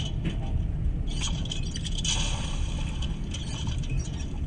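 Passenger train carriage running: a steady low rumble from the wheels and track, with high rattling and squeaking from the carriage, busiest from about one to three seconds in.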